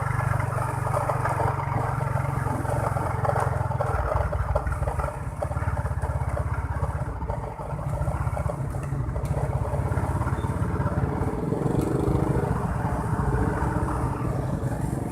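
Motorbike engine running steadily while being ridden on a road, with road noise.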